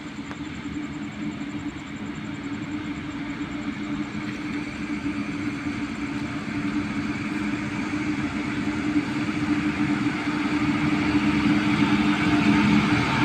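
An approaching locomotive: a steady engine drone with a low hum that grows gradually louder as it nears.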